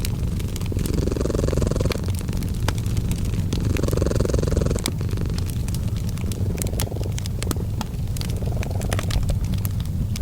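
Cat purring steadily, swelling with each breath about every two to three seconds, over a wood fire crackling with frequent sharp pops.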